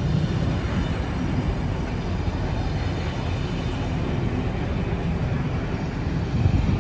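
A train running past, a steady noise heaviest in the low end with no distinct beat.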